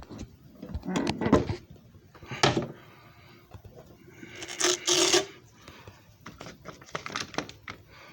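Scattered clicks and knocks of hard objects being handled, with a louder scraping burst about halfway through.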